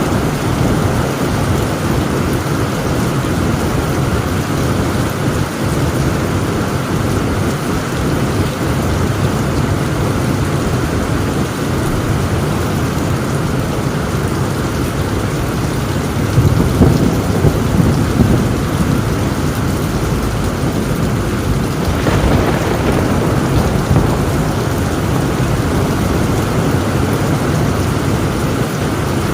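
Heavy rain drumming steadily on a tin roof, with a low roll of thunder swelling a little past the middle.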